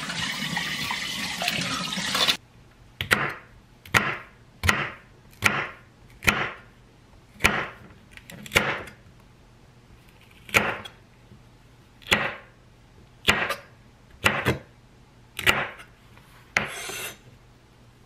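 Knife slicing a red bell pepper on a wooden cutting board: about a dozen crisp single cuts, roughly one a second, each ending in a knock on the board, with one longer scraping cut near the end. For the first two seconds, running tap water rushes, then stops abruptly.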